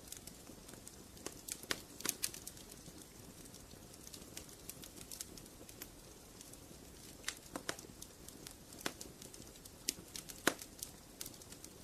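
Wood fire in a fireplace crackling: irregular sharp snaps and pops over a faint steady hiss, a few of them louder.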